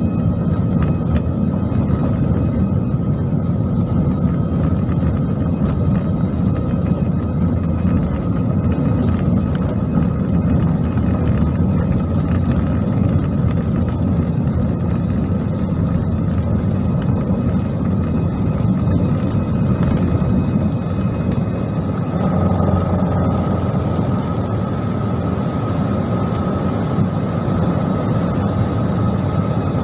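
Airliner jet engines heard from inside the passenger cabin: a steady roar with a thin whine above it, which grows a little stronger about two-thirds of the way through.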